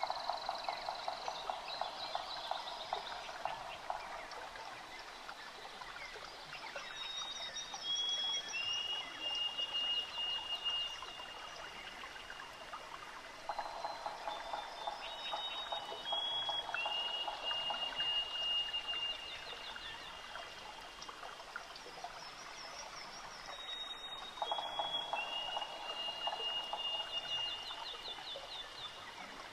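Looped nature ambience: long held whistled notes stepping down in pitch and a rough croaking chatter, the same pattern repeating about every eleven seconds over a steady trickling-water hiss.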